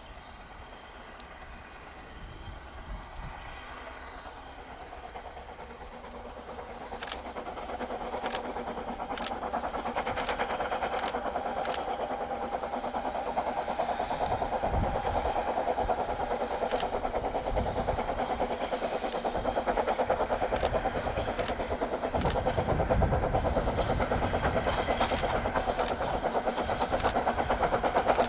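A steam-hauled train approaching, growing steadily louder, with its wheels clicking sharply over the rail joints about once a second and a low rumble as it draws near.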